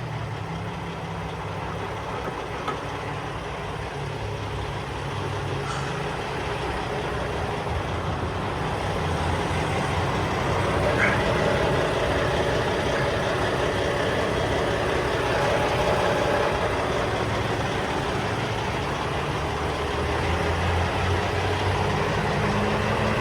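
Semi truck's diesel engine running steadily, its pitch rising slightly near the end.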